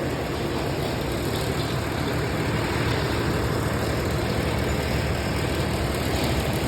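Steady low rumble with a hiss over it, unbroken throughout.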